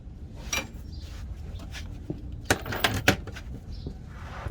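Handling noises while working under the truck: a sharp click, then a quick cluster of several hard clinks and knocks about two and a half seconds in, over a steady low rumble.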